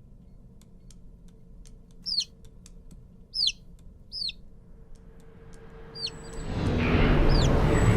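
Short high bird chirps, each falling in pitch, five of them spread a second or so apart, over faint regular ticking. In the last second and a half a rushing noise with a low rumble swells up.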